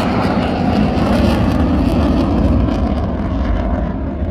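Eurofighter Typhoon's twin jet engines, loud as the fighter flies past the crowd, a dense rumbling jet noise that eases slightly near the end.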